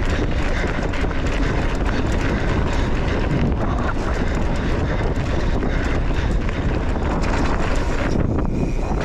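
Wind buffeting the microphone of a camera carried on a mountain bike ridden fast down a dirt trail, with a steady low rumble of tyres on dirt and many small rattles and knocks from the bike.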